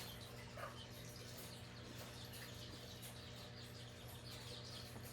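Faint small-bird chirps over a steady low hum.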